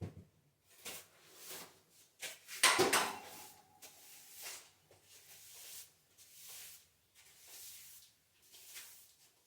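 Intermittent scraping and knocking of hand work, with one louder clank about a third of the way in that rings briefly.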